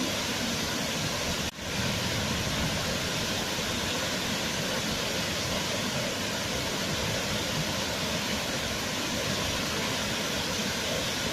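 Waterfall: a steady rush of falling water, with a brief dropout about a second and a half in.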